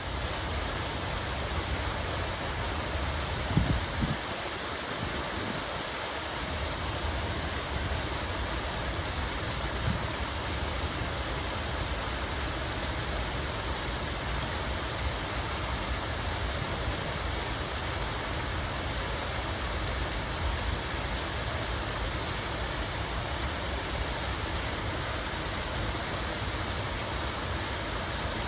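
Steady rush of running water, an even hiss with a low rumble under it, with a couple of brief low knocks about four seconds in.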